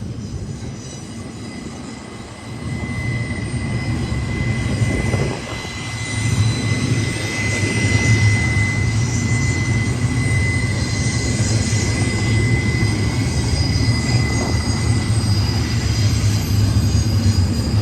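Intermodal freight train of container cars rolling past, a steady rumble of wheels on rail that grows louder a couple of seconds in and then holds. A thin, steady high-pitched tone rides over it for several seconds in the middle.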